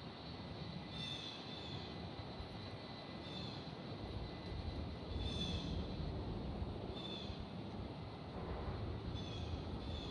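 Distant aircraft passing overhead with a low rumble that swells about halfway through, while a bird chirps about every two seconds.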